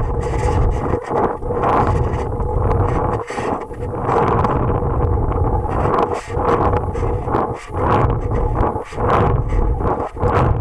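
Wind buffeting the microphone of a high-power rocket's onboard video camera as the rocket spins under its parachute, a loud rushing that surges and dips over and over.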